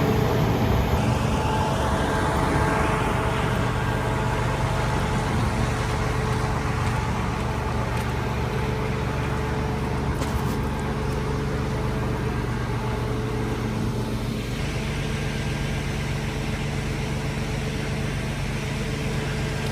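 Steady vehicle running noise: a continuous low engine hum with road noise and no sharp events.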